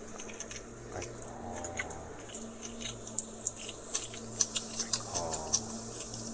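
A man chewing a crispy fried chicken sandwich with his mouth close to the microphone: many small, irregular crunching and wet mouth clicks, with a faint mumbled hum twice.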